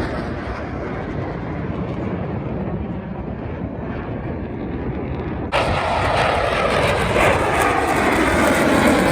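Airplane flying past, its engine rumble fading and losing its top end, then abruptly louder and brighter about five and a half seconds in.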